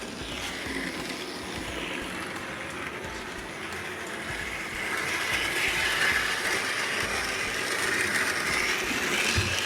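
A Thomas the Tank Engine model train's electric motor runs as the engine pulls its Annie and Clarabel coaches along the track. The running sound grows louder about halfway through.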